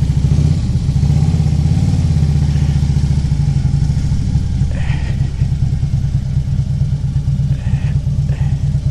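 A vehicle's engine running steadily at low speed, a deep even drone.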